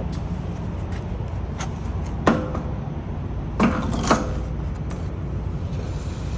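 Metal knocks and clicks of a diesel pump nozzle being handled and seated in a truck's fuel tank filler: one sharp clack about two seconds in and two more a second and a half later, over a steady low hum.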